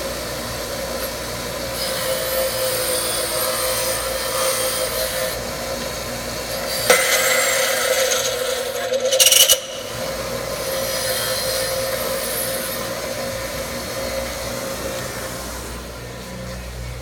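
Bench grinder running, its wheel grinding slag off a stick-welded steel butt weld. A steady whine sits under a grinding noise that swells and fades, loudest from about seven to nine and a half seconds in, where it stops sharply.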